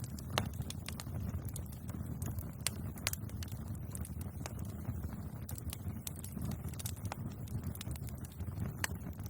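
Bonfire crackling: irregular sharp pops and snaps of burning wood over a steady low rumble of the flames, the loudest snap about half a second in.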